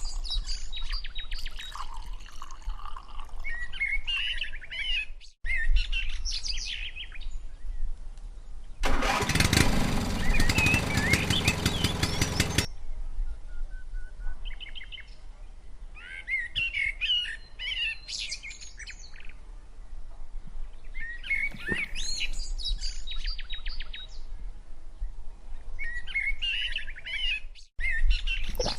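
Small birds chirping and twittering in short repeated calls. About nine seconds in, a loud, dense mechanical-sounding noise runs for roughly three and a half seconds and then stops abruptly.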